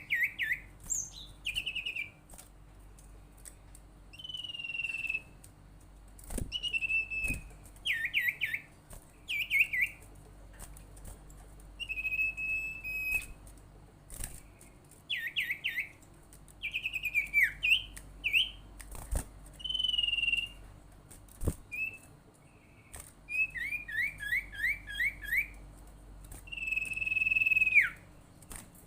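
Sirtu, a kind of iora, calling: short bursts of quick trilled whistle notes alternating with drawn-out whistles, repeated every second or two. The last long whistle bends sharply down at its end.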